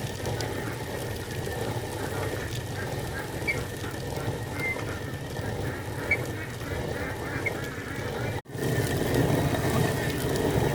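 A flock of ducks quacking together, with a brief break a little past eight seconds in.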